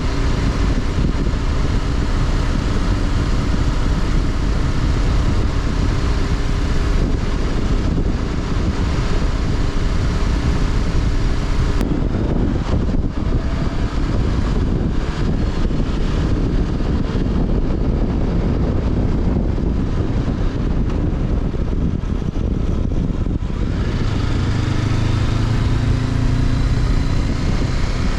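Honda CB500X's parallel-twin engine running while riding, heard onboard over heavy wind rush. The engine note holds steady, the sound changes abruptly about twelve seconds in, and the pitch climbs near the end as the bike accelerates.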